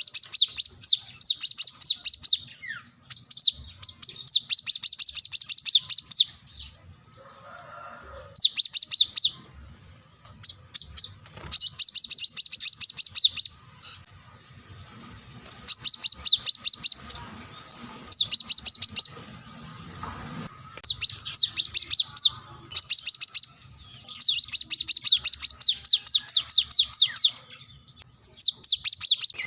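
Brown-throated sunbird (kolibri kelapa) in full song. It gives rapid runs of high, sharp chirps in bursts of one to two seconds, separated by short pauses.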